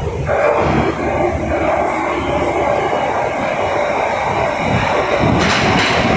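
Glasgow Subway Stadler train in the station, a steady running noise. A louder, higher hiss sets in about five seconds in.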